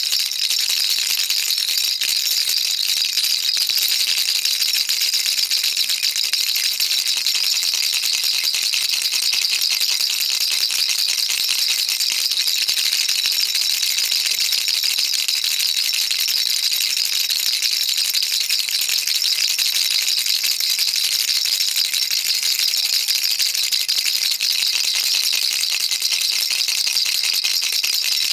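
Baby rattle shaken continuously, a dense, even stream of fine rattling ticks with no pauses.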